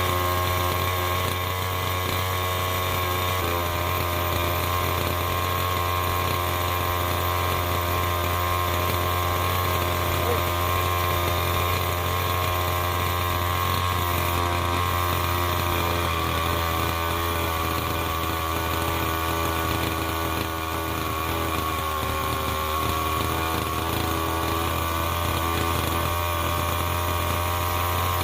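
Small 32cc two-stroke gas engine of a Redcat Racing Rampage MT RC truck running steadily, its pitch shifting slightly about two-thirds of the way through.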